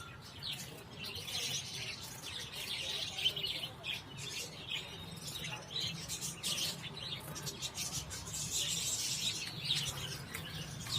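A flock of small cage birds chirping and twittering continuously, a busy high-pitched chatter, with one sharp click about three seconds in.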